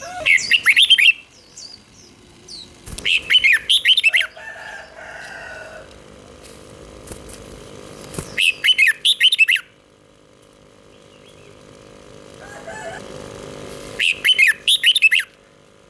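Red-whiskered bulbul singing: four short bursts of quick, warbling whistled phrases, a few seconds apart.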